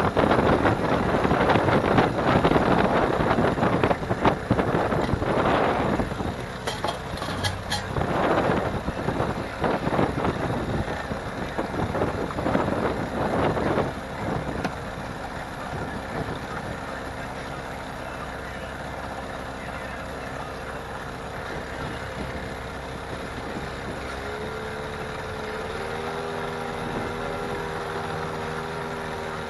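Boat motor running under way, with wind gusting on the microphone for about the first half; the engine's pitch steps up about 24 seconds in.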